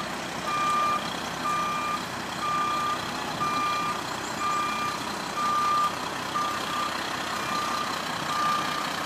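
Truck's reversing alarm beeping steadily, about one beep a second, as the boat-hauling truck backs up, over a steady background of engine noise.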